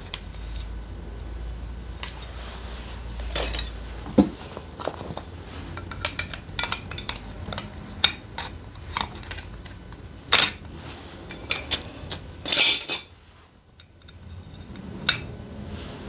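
Metal hand tools and small engine parts clinking and knocking against each other in a string of separate sharp clinks, with a louder rattling clatter near the end.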